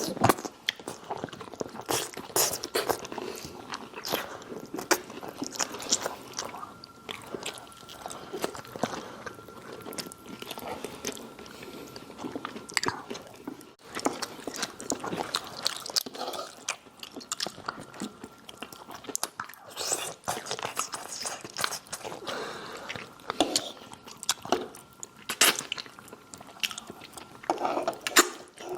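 Close-up eating sounds: biting and chewing crunchy food, with many short crisp crackles and smacks throughout.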